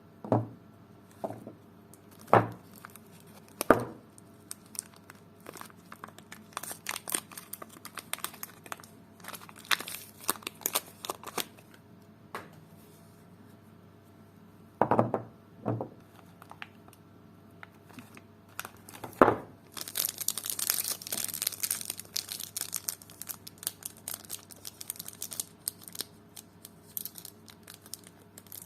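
Soap packaging being crinkled and torn open by hand, with scattered crinkles in the middle and a long stretch of steady crinkling and tearing near the end. A few sharp knocks stand out, the loudest near the start.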